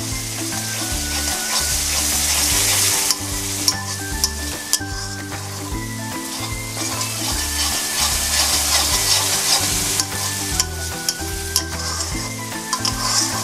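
Cashew and poppy-seed masala paste sizzling in oil in a metal kadai while a spatula stirs it, with occasional taps and scrapes of the spatula on the pan. This is the paste being fried down (kashano) until cooked through.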